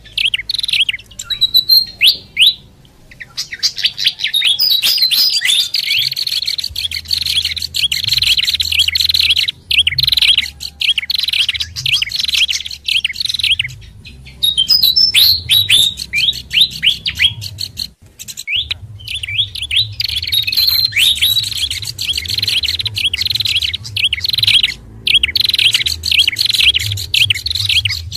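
Bird-lure recording of small songbirds chattering: rapid, high chirps packed into dense bursts a few seconds long with short pauses between, over a faint low hum.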